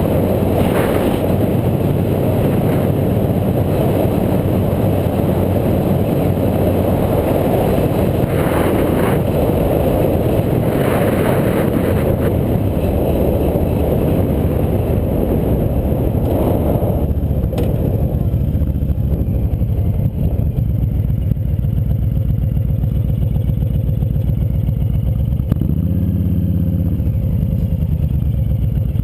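Loud steady rumble of wind and riding noise on an action camera's microphone during a bike ride. About 17 seconds in the higher part of the noise falls away, leaving a lower steady hum.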